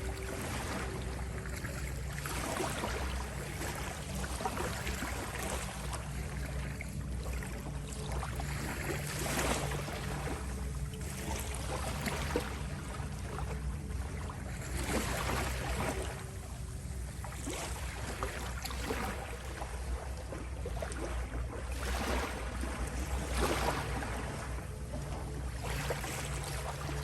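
Ocean waves washing in as repeated surges, one every two seconds or so, over a steady low hum.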